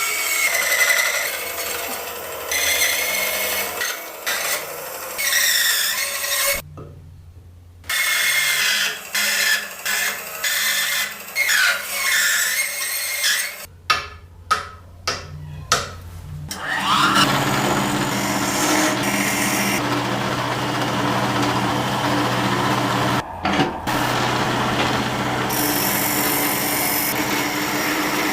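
Woodworking tools working wood in short cut-together bursts: rasping, rubbing and brief power-tool runs with pitch sliding up and down. About halfway through a power tool spins up with a rising whine and then runs steadily.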